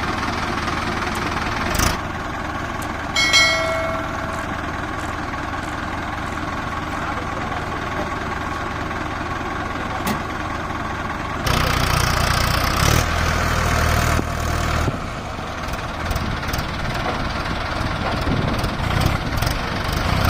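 Diesel tractor engine running steadily, growing louder and heavier for a few seconds from about eleven seconds in. A brief ringing tone sounds about three seconds in.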